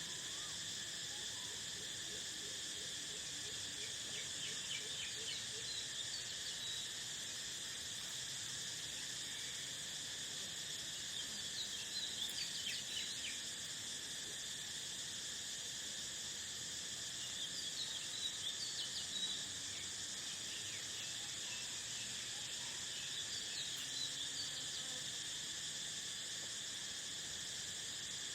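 Steady chorus of crickets, several unbroken high trills layered together. Over it, a bird gives short bursts of quick high chirps about every six seconds.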